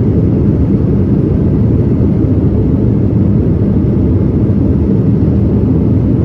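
Boeing 787-9 jet engines and airflow heard from inside the cabin as a steady, loud low rumble, typical of an airliner climbing after takeoff.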